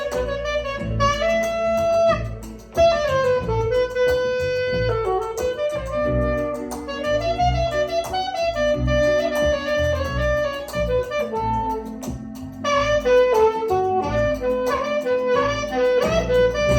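Live band playing an instrumental passage: a lead melody of held and quick notes over a steady bass line and beat.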